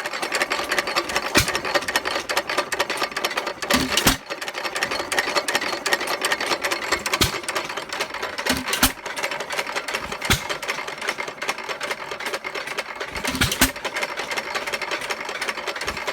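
1924 Associated 2 hp single-cylinder hit-and-miss engine running. A steady mechanical clatter is broken by a sharp firing stroke about every one and a half to three seconds, as the engine fires and then coasts between power strokes.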